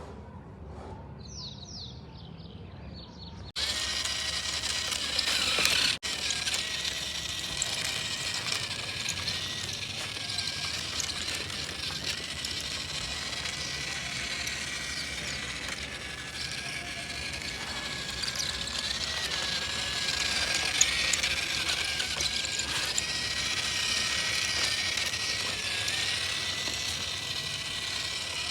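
Small electric motor and plastic gearbox of a remote-control toy construction vehicle whirring and grinding, with a thin whine that dips in pitch now and then as it works. It starts suddenly a few seconds in.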